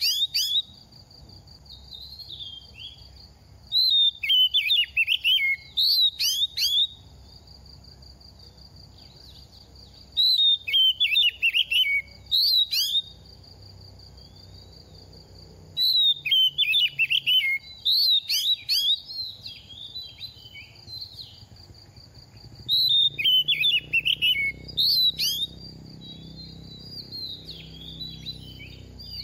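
Oriental magpie-robin singing: bursts of rapid warbled and whistled notes, repeated about every five to six seconds, with a high steady whistle held beneath several of the phrases.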